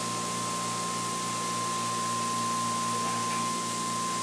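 Generator test rig running steadily: a motor-driven generator humming, with a constant high-pitched whine over the hum.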